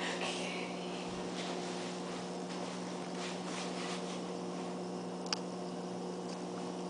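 Steady low electrical hum with faint intermittent rubbing and scraping, and one short sharp click about five seconds in.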